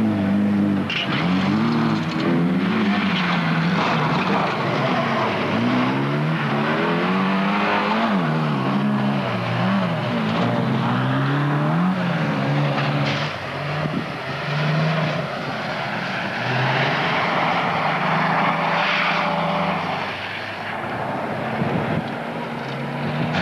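Folkrace cars' engines revving hard on a dirt track, the pitch climbing and dropping again every second or two as they accelerate and shift.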